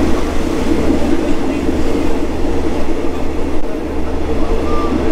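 Single-coach Special Express 45 passenger train running along the line: a steady, loud running noise of wheels on rails and the moving coach.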